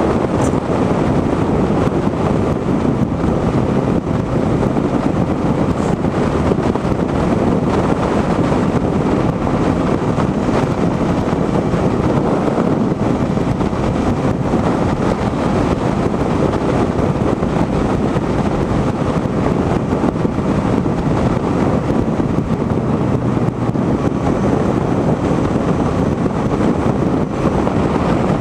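Steady wind rush buffeting the microphone on a moving motorcycle, with road noise underneath and no change in pace.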